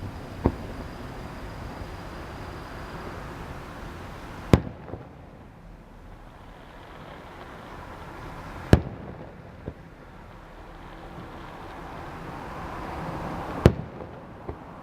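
Fireworks bursting: four sharp bangs about four seconds apart, most followed within a second by a fainter second report, over a steady background hiss.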